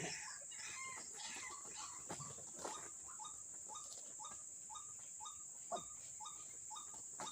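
White-breasted waterhen calling, a run of short repeated notes about twice a second, with a few sharp knocks in between, the loudest near the end.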